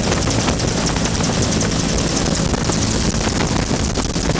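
A Bell UH-1 'Huey' helicopter in flight: turbine and rotor running steadily, a loud drone with a rapid, even rotor beat.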